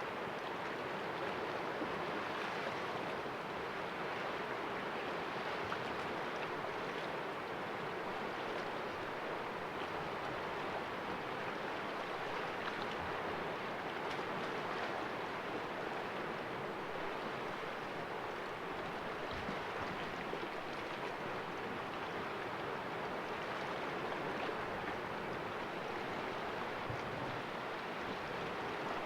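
Sea waves washing and splashing against rocks in a cove, a steady, even wash of surf with no distinct single breakers.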